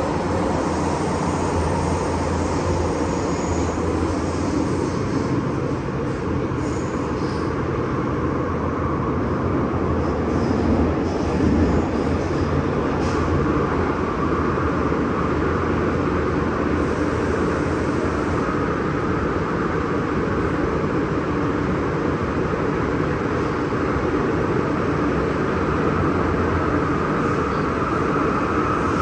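MTR M-Train metro train running on the Tseung Kwan O Line, heard from on board: a steady rumble of wheels on rail, with a faint motor whine that rises in pitch near the end.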